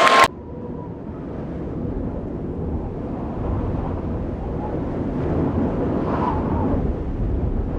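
Dance music cuts off abruptly about a quarter second in, leaving a low, rumbling room noise with faint, indistinct voices now and then.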